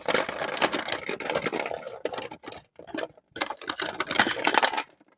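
Popcorn spilling from a bowl and scattering, a dense rattling clatter of many small pieces in two bursts with a short pause between them.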